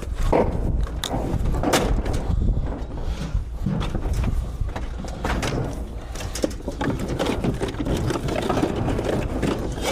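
Scattered knocks and clatter of a metal barbecue being handled and set in place, over a steady low rumble.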